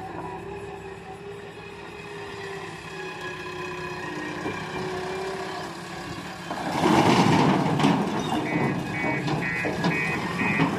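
Heavy diesel machine running steadily, then much louder from about two-thirds of the way in as it works under load, with a reversing alarm starting to beep evenly, about three beeps a second, near the end.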